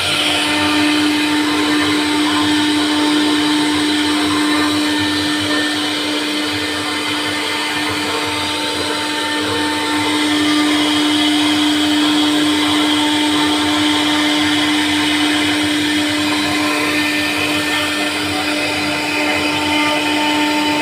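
CNC router spindle running steadily while carving wood, a constant high motor whine over the noise of the cut.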